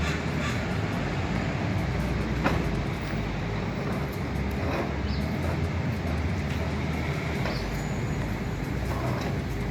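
Steady low engine rumble with an even hiss over it.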